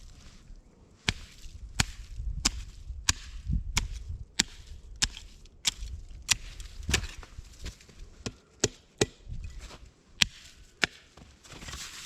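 Wood being chopped: a steady run of sharp blade strikes on wood, about three every two seconds.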